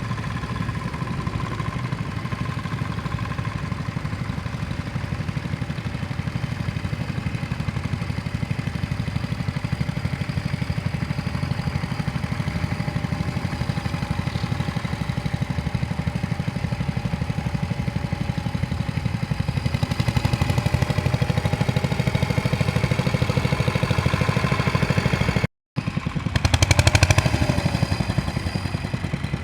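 Vintage tractor engine running steadily with an even firing beat. The sound drops out briefly near the end and comes back louder.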